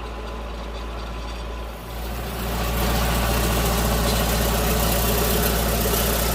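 Tractor engine running steadily, getting louder about two seconds in and then holding steady.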